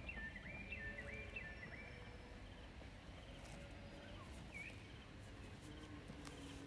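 Quiet outdoor ambience with a bird singing a quick series of short whistled notes during the first second or so, and one more chirp a few seconds later, over a low steady background rumble.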